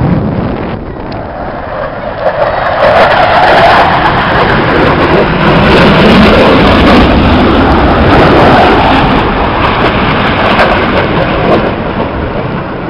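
Jet noise from RAF Tornado GR4s' twin RB199 turbofan engines on a low pass: a loud, rough roar that builds about two seconds in, stays heavy for several seconds and eases off near the end.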